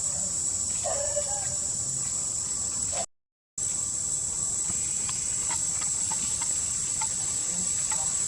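Steady high-pitched insect chorus, typical of crickets, with a couple of short calls about a second in and scattered light clicks later on. The sound cuts out completely for about half a second around three seconds in.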